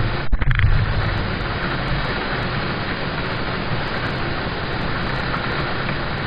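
Steady rain on a car's roof and windows, heard from inside the car as an even hiss with a low drumming, with a brief break about a third of a second in.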